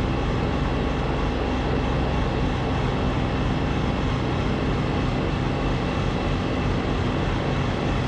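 Snowblower engine running steadily under load as it works through deep, sticky snow.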